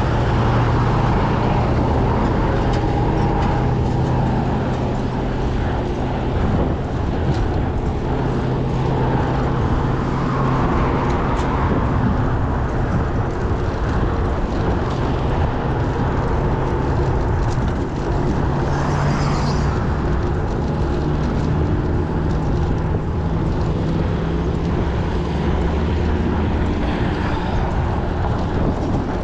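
Steady road noise from riding a bicycle along a road, with a low hum that wavers in pitch and no pauses.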